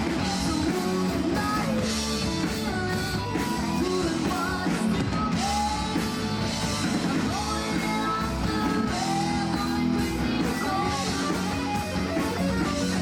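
Live hard-rock band playing: electric guitar and drum kit with a lead vocal.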